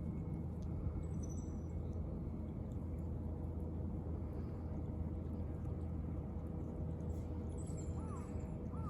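Steady low outdoor background rumble with a faint steady hum, like distant traffic, and a few short faint chirps near the end.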